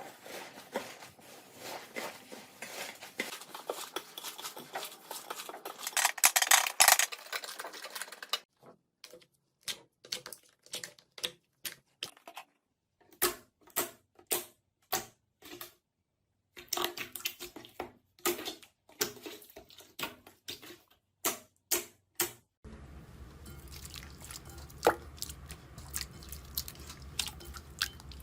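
Slime being pressed and poked by hand, making sticky crackles and pops: a dense run of crackling at first, then separate pops with short gaps. Near the end, softer clicks sit over a steady low hum.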